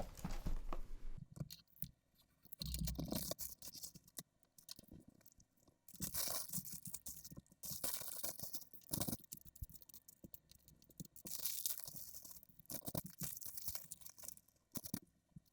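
LEGO set packaging being opened and handled: plastic parts bags crinkling and tearing in irregular bursts, with small clicks of pieces, the handling sped up.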